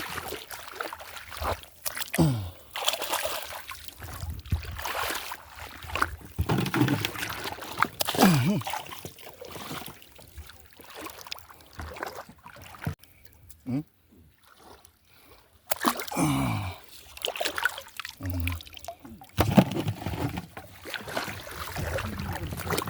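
Water splashing and sloshing in irregular surges, with a few short voice sounds and a quieter spell about two-thirds of the way through.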